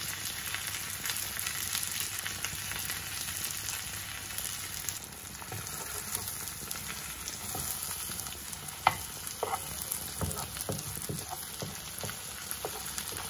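A large prawn sizzling in butter and garlic in a non-stick frying pan over medium heat, a steady hiss. From about nine seconds in there are scattered clicks and scrapes from a metal spatula turning it in the pan.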